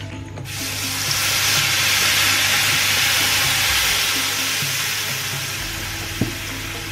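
Blended yellow spice paste poured into hot frying oil and sizzling loudly: a hiss that sets in sharply about half a second in, swells over the next couple of seconds and then holds. A single short click near the end.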